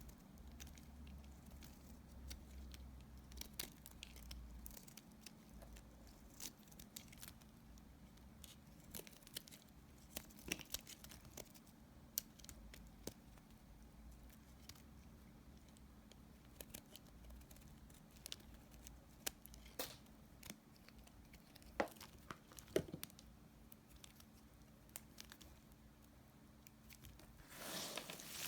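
A knife cutting dry leftover soap pieces: scattered faint crisp clicks and crackles, with a louder run of crumbly crunching near the end.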